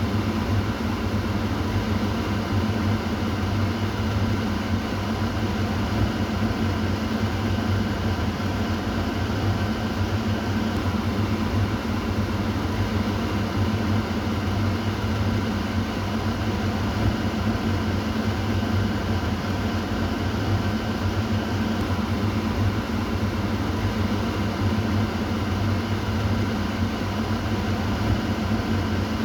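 Kitchen exhaust fan running steadily, a constant low hum with an even whoosh of air.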